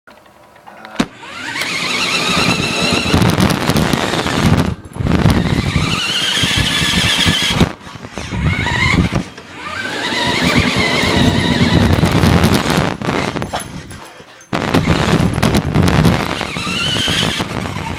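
RC car's motor and gears whining, rising in pitch as it speeds up, in several runs a few seconds long with short breaks between them, over rumbling wheel and ground noise. Heard close up from a recorder strapped to the car itself.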